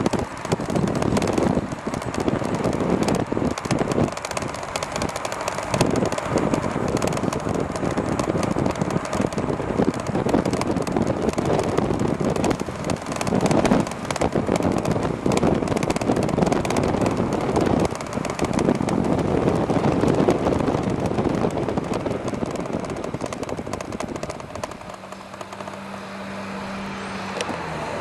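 Wind and road noise rushing over the microphone of a moving e-bike, gusty and uneven. About three seconds before the end it eases and a steady low hum comes in.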